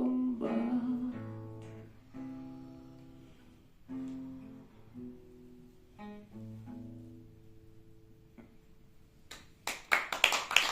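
Acoustic guitar closing a song: a held note fades, then a few slow plucked chords ring out and die away. Near the end a flurry of sharp claps begins.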